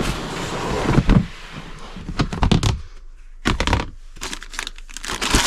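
Rummaging through a storage bin: a rustle, then irregular scrapes, knocks and clicks as items are moved about and pulled out.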